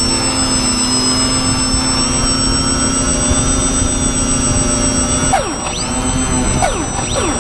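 Twin motors of a radio-controlled cargo plane running steadily in flight, with a high whine over rushing air. From about five seconds in, their pitch swoops up and down several times as the throttle changes.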